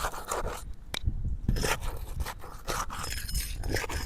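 A roof snake scraping and crunching as it is worked under asphalt shingles, breaking them loose from their seal, in irregular strokes with a sharp click about a second in.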